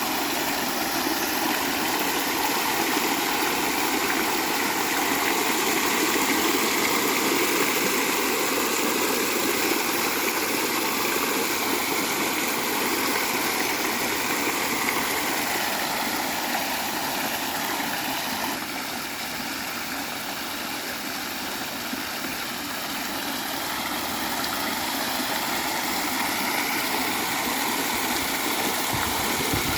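Ring jet water fountain spraying and splashing: a steady rush of falling water that eases a little for a few seconds past the middle.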